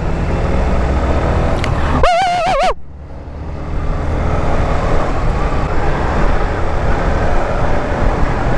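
A 150cc motorcycle's engine running during a ride, under heavy wind noise on the microphone that dips briefly about three seconds in. About two seconds in, a short wavering sung note.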